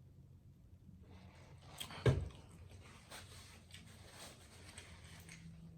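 Eating and food-handling noises close to the microphone: rustling and small clicks, with one loud thump about two seconds in.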